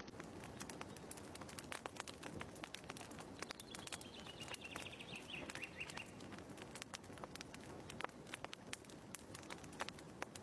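Faint wood fire crackling in a fireplace: irregular small pops and snaps over a low hiss. About four seconds in, a brief chirping trill falls in pitch.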